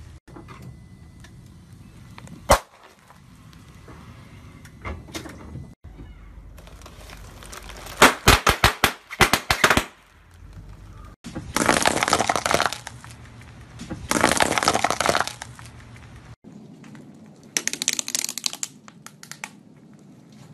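A car tyre rolling over and crushing a series of objects. There is one sharp crack about two and a half seconds in, then a rapid run of loud snaps around eight to ten seconds, two longer noisy bursts around twelve and fifteen seconds, and a short run of crackling near the end as wooden craft sticks break under the tyre.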